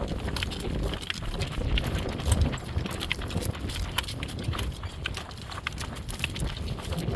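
A driven horse's hoofbeats with the rattle and clicks of its harness and vehicle, over a steady low rumble of wind on the microphone.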